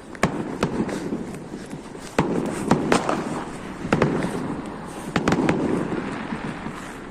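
Fireworks going off: an irregular series of sharp bangs, about a dozen, with crackling in between.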